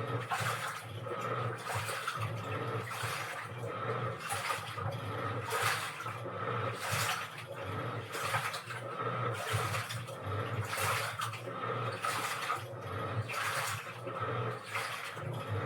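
Washing machine running a wash cycle: water sloshing and churning in the drum in regular surges, a little under once a second, over a low motor hum.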